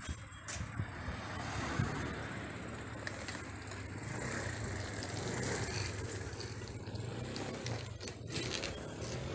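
Road traffic: cars passing on a busy road, a steady rush of tyre and engine noise that swells in the middle.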